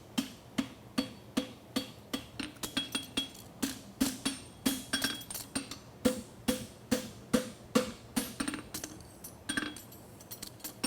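Farrier's hammer striking a steel bar shoe on an anvil, about three blows a second with a short ring after each, as he bends the toe of the shoe. A brief pause comes near the end.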